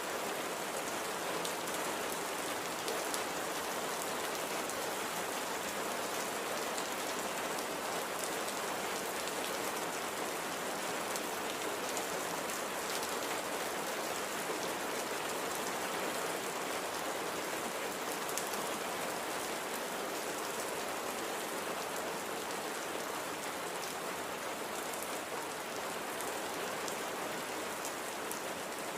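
Steady light, gentle rain falling, an even hiss with fine scattered drop ticks.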